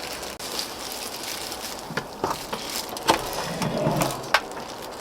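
Close-miked mukbang eating sounds of pork-bone stew: chewing and mouth noises with scattered sharp clicks, a few seconds apart.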